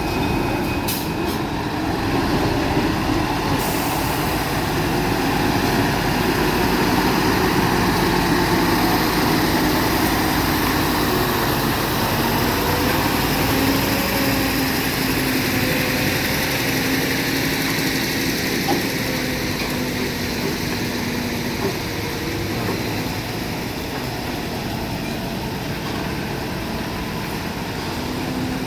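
A heavy diesel truck engine running steadily, its pitch drifting slightly up and down.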